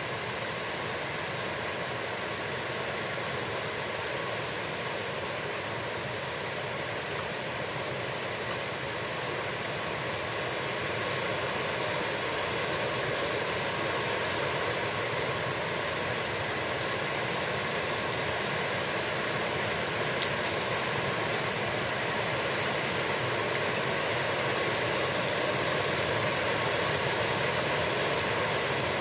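Heavy rain falling steadily on a pond, a dense even hiss that grows a little louder about ten seconds in.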